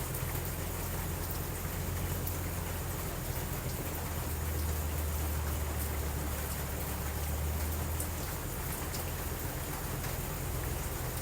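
Steady rain falling, with a continuous low rumble underneath and scattered faint ticks.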